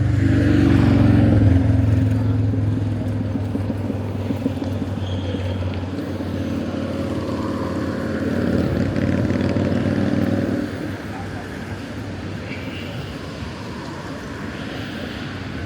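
Vehicle engine running with a steady low hum, loudest in the first couple of seconds, dropping away suddenly about ten and a half seconds in, leaving a quieter background of traffic.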